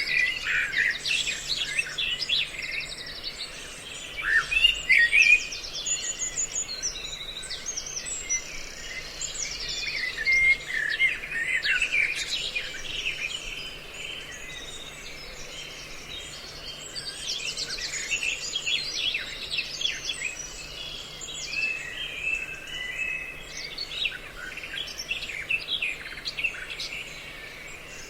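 Recorded bird calls from several species mixed together, played back as a bird-trapping lure: dense, overlapping chirps, rapid trills and whistles with no pause, over a faint steady low hum.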